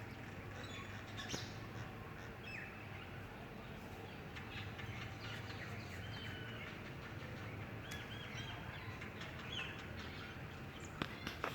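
Small birds chirping in short, scattered calls over a steady background hiss, with a few sharp clicks near the end.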